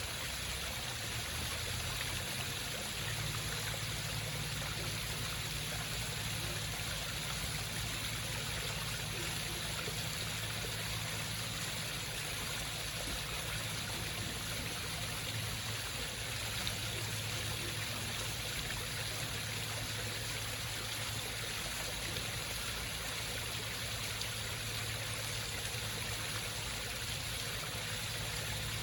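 Home waterfall feature: water running and trickling steadily over rocks, with a low steady hum underneath.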